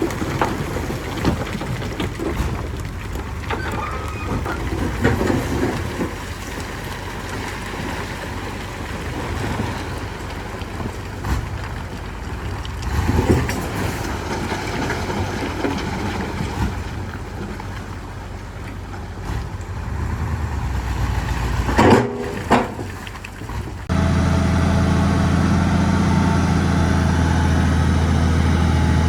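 Heavy diesel earthmoving machinery running with a low rumble and scattered clanks. About 22 s in come two sharp knocks. At about 24 s the sound changes abruptly to a louder, steady engine note with a clear low hum.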